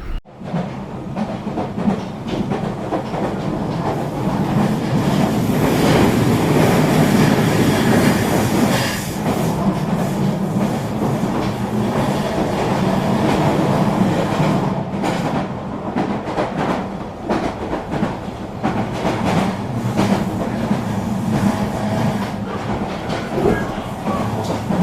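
Eurobahn regional train running along the track: a steady rumble with frequent wheel clicks and clacks over rail joints, growing louder a few seconds in.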